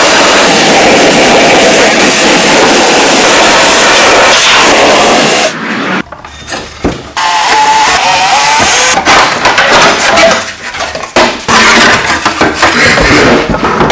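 Mini bike's small engine running loud and rough, cutting out briefly about six seconds in and then picking up again unevenly.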